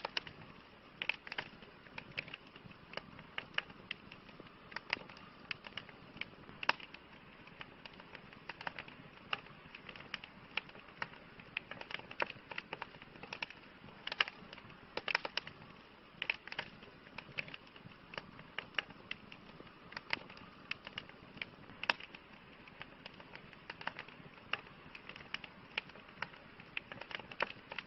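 Campfire burning: wood crackling and popping in quick, irregular snaps over a soft, steady hiss of the flames.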